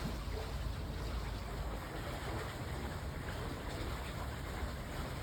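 Steady rush of wind over the microphone and water streaming past the hull of a sailboat under sail at about 8 knots, with the wind buffeting unevenly.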